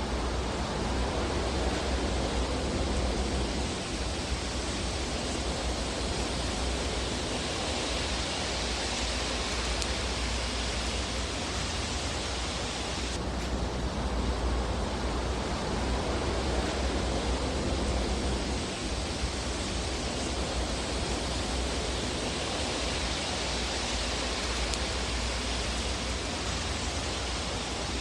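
Fire burning in a fireplace: a steady hiss with a low rumble underneath. The high part of the hiss changes abruptly about thirteen seconds in.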